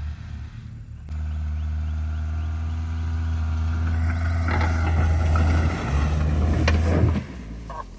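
Chrysler PT Cruiser engine running steadily, with an abrupt break about a second in. A rising rush of noise joins it about halfway through, with a sharp click late on, and the engine sound drops away shortly before the end.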